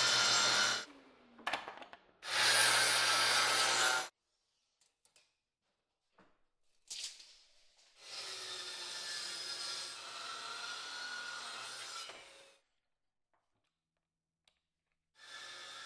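A power tool sanding or shaping wood, heard in separate bursts: two loud ones at the start, a quieter, longer run about halfway through, and another starting near the end, with near silence and a few clicks in between. A steady motor hum runs under the grinding.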